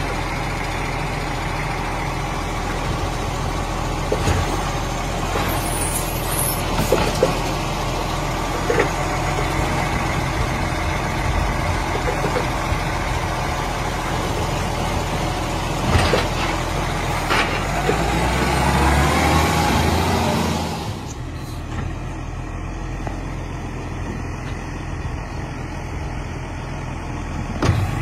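Garbage truck running steadily, with scattered clanks and knocks. A rising whine builds about two-thirds of the way through, then the sound drops suddenly and runs on quieter.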